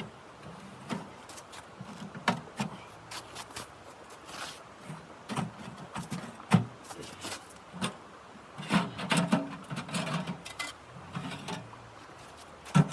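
Irregular clicks and knocks, some with a dull thud beneath them, coming in uneven clusters with the busiest stretch about two-thirds of the way through.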